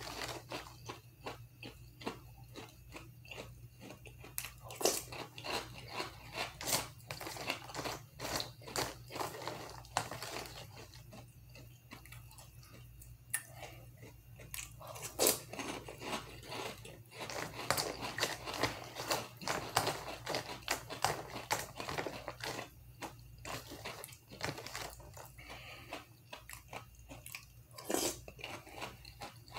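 A person chewing mouthfuls of crunchy Toast Crunch cereal, with many crisp crunches throughout.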